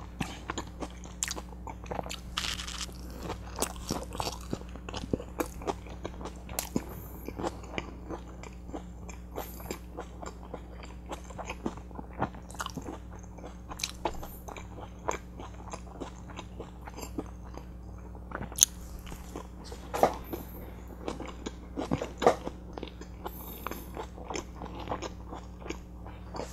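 Close-miked chewing of a butter chicken burrito: irregular mouth clicks and bites, a few louder ones in the last third, over a faint steady low hum.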